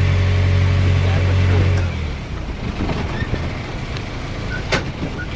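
An engine running with a steady low hum that stops about two seconds in, leaving a noise of wind and water with a few light knocks and one sharper knock near the end.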